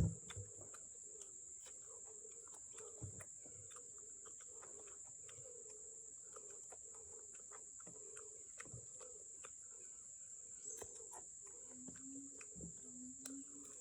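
Insects trilling steadily in a single high continuous tone, with scattered faint clicks. A sharp thump at the very start and a few short low notes near the end.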